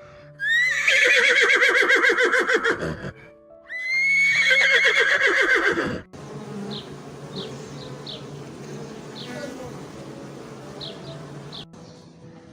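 A horse whinnying twice, each neigh a long call with a quavering pitch that starts high and falls away. It is followed by a quieter steady hiss with a few faint short chirps.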